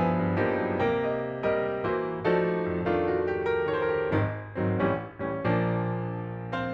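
Background piano music: notes and chords struck about twice a second, with a final chord near the end left ringing and fading away.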